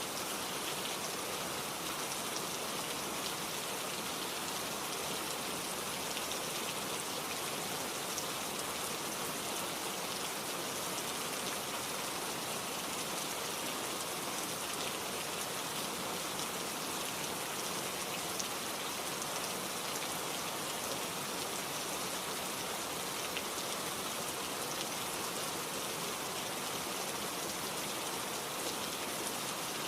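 Steady rain falling, an even hiss with fine pattering drops and no change in level.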